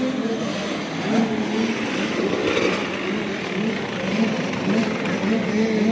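Several 85cc two-stroke motocross bikes racing, their engines overlapping and revving up and down over and over.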